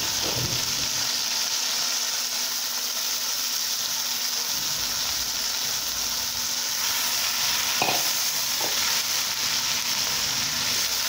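Chicken and onions sizzling as they fry in a nonstick wok, a steady hiss, with a few brief scrapes of a silicone spatula stirring them.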